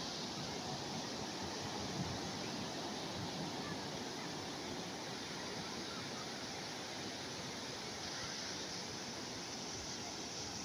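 Calm sea waves washing on the shore as a steady, even hiss, with no distinct breakers standing out.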